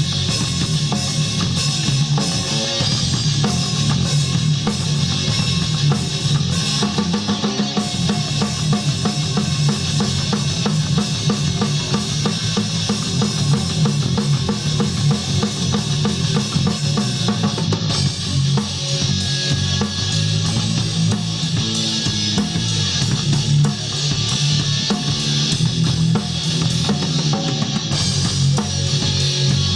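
Rock band playing, with the drum kit (bass drum and snare) to the fore over electric guitar.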